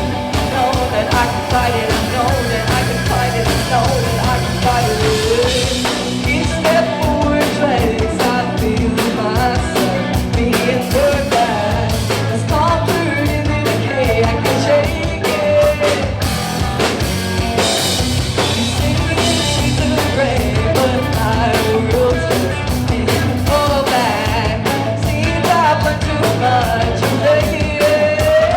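Live rock band playing a song: a singer's melody over drum kit, bass and guitar, loud and unbroken.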